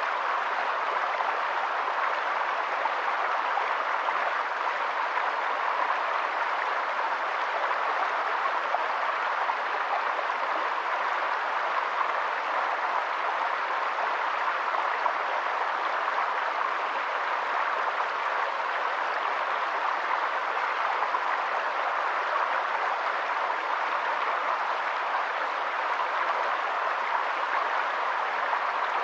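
Steady rushing water, a constant even hiss with no breaks or separate events.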